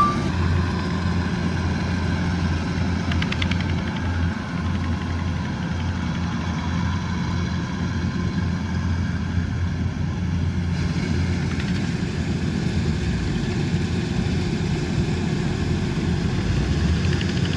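Combine harvester's diesel engine running steadily at constant speed, a continuous low hum with machinery noise over it.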